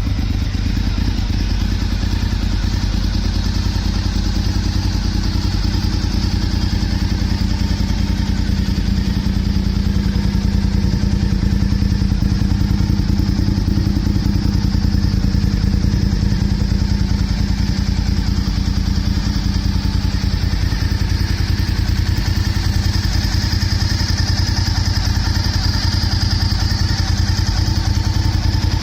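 Honda RVT1000R's V-twin engine idling steadily through an aftermarket LeoVince muffler, with a deep exhaust rumble. It runs at a slightly higher level from about ten seconds in.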